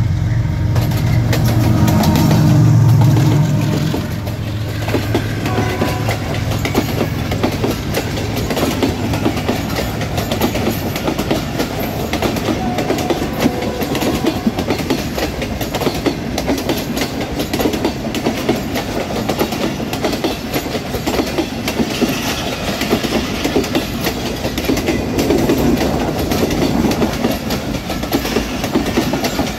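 Pakistan Railways diesel locomotive passing close by, its engine droning for the first few seconds, then a long rake of passenger coaches rolling past with the wheels clattering steadily over the rail joints.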